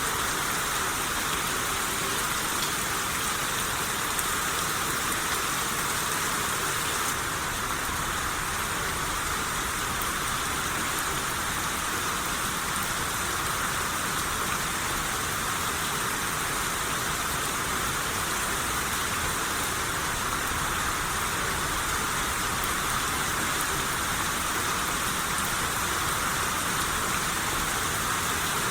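Steady rain shower falling, an even, unbroken hiss of rain on surfaces.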